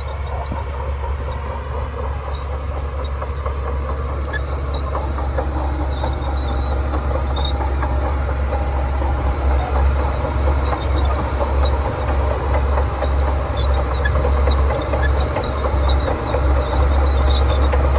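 Shantui DH17C2 crawler bulldozer's diesel engine running under work, a steady deep drone with a dense rattling clatter from the machine and its tracks, slowly getting louder.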